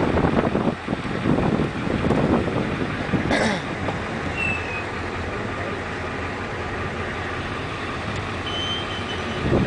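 Truck engine running with a rough, uneven rumble that is heaviest in the first few seconds and then settles to a steady drone. A short sharp click comes about three seconds in.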